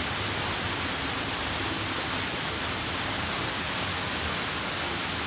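Heavy rain pouring steadily, a dense, even hiss with no break or thunderclap.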